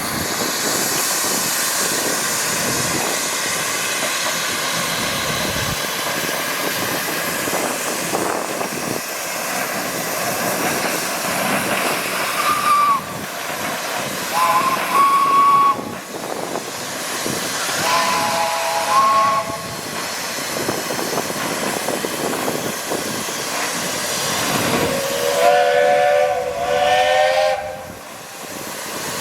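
Steam traction engines hissing steam steadily, with several short blasts of a steam whistle in the second half, each sounding a chord of several tones together, the longest near the end.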